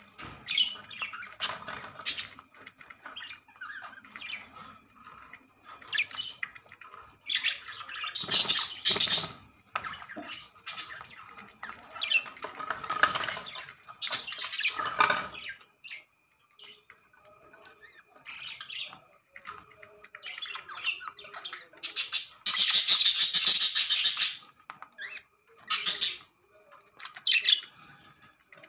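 Pet budgerigars chattering and squawking in irregular bursts, with several louder, harsher bursts, the longest lasting about two seconds.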